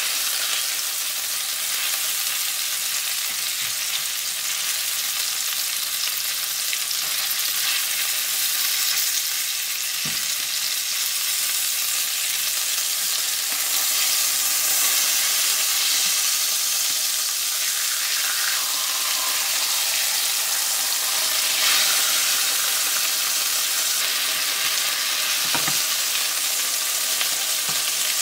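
Chicken breasts sizzling in hot oil in a nonstick frying pan, a steady hiss. A couple of soft knocks come as silicone-tipped tongs turn the pieces against the pan.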